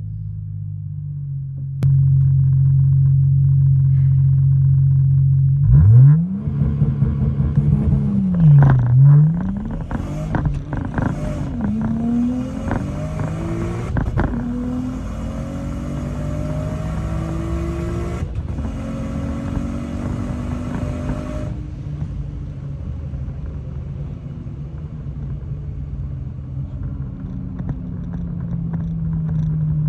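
Single-turbo BMW 335i's N54 inline-six idling steadily, then revved sharply twice about six seconds in. It then pulls hard through the gears, its pitch climbing and dropping back at each upshift, until the throttle lifts a little past two-thirds of the way and the engine winds down as the car slows.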